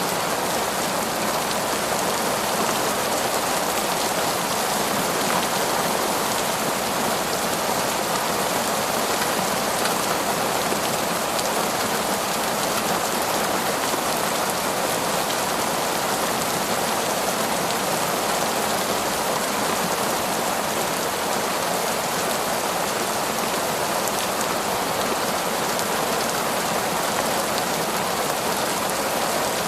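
Heavy, torrential rain falling steadily in a forest, a dense even hiss of drops on leaves and ground with no thunder.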